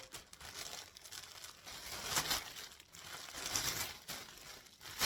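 Crinkly rustling in several short, irregular bouts, as something is handled.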